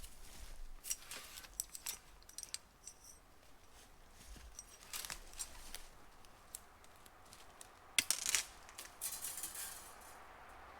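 Faint, scattered metallic clicks and rattles of steel support wire being handled and worked into a wire ratchet tensioner, with a louder cluster of clinks about eight seconds in.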